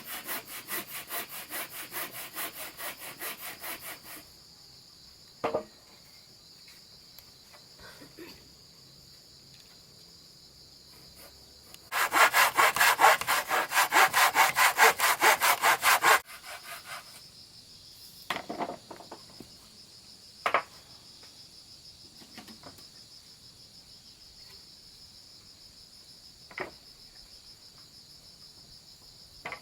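Hand saw cutting wood in quick, even strokes, in two spells: one that stops about four seconds in, and a louder one of about four seconds starting near the middle. Between and after them come a few single knocks over a steady high insect drone.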